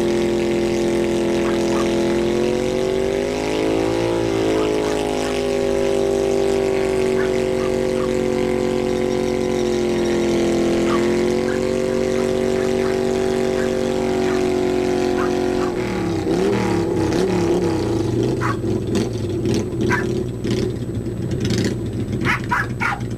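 1995 Kawasaki VN800's V-twin, through drag pipes, held at high revs in a burnout with the rear tire spinning, its pitch rising briefly a few seconds in and dipping once midway. About 16 seconds in the steady note breaks into a rough, uneven running with sharp pops and clicks.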